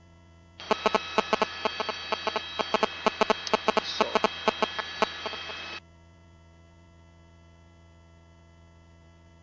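A helicopter's headset intercom channel opens for about five seconds and carries a burst of crackling cabin noise full of rapid, irregular sharp clicks, then cuts off abruptly. A faint steady electrical hum runs beneath it.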